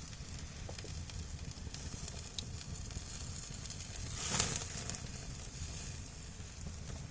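Campfire crackling with a steady sizzle, swelling to a louder hiss about four seconds in.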